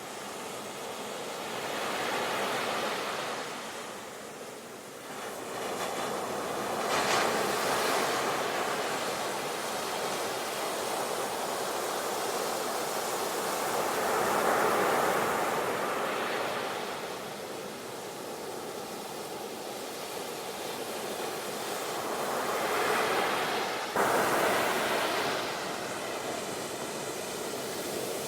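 Sea waves breaking and washing up, a hiss that swells and fades every few seconds, with an abrupt jump in loudness near the end.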